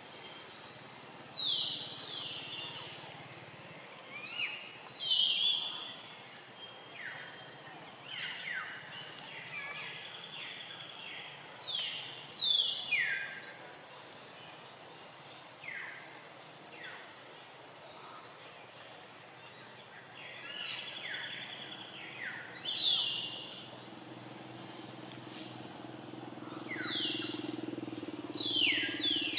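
Wild birds calling repeatedly over quiet outdoor ambience: short, bright whistled calls that each slide downward in pitch, often two or three in quick succession. A low steady hum comes in near the end.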